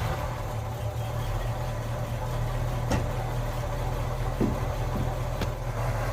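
1948 Ford F5 bus engine idling steadily through its new custom exhaust, running quiet and smooth. A few faint clicks sound over the idle.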